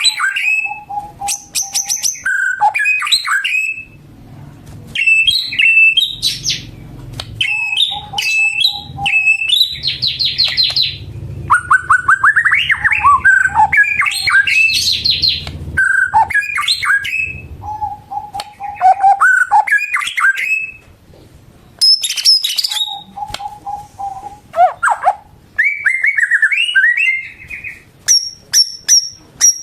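White-rumped shama in full song: a continuous, varied run of loud whistles, fast trills and chattering notes, broken now and then by a held lower whistle.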